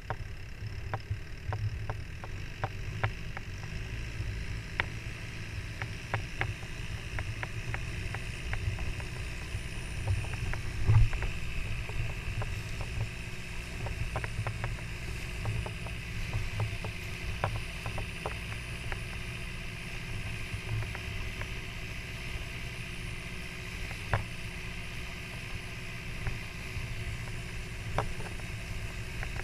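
A boat's engine running steadily as the boat travels over the water, with scattered sharp knocks and one louder thud about eleven seconds in.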